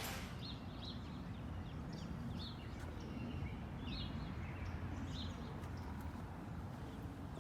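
Birds chirping now and then over a low, steady rumble of background noise.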